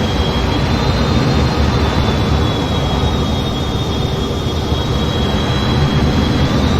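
F-15 jet noise in flight: a steady rush of engine and air noise, with a thin high whine that shifts slightly in pitch about a second in and again near the end.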